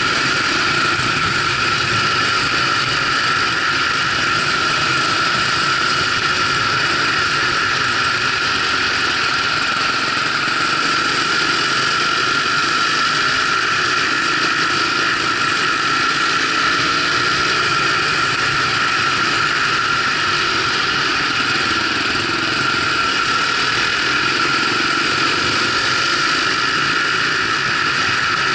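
Off-road motorcycle engine running steadily at low road speed, recorded from the riding bike.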